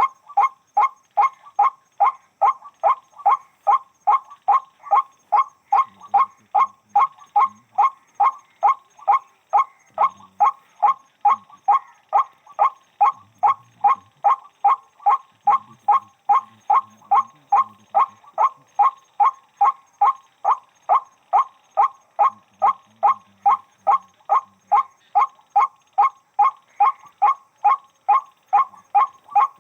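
White-breasted waterhen calling: a loud, monotonous run of short harsh calls repeated nearly three times a second without a break.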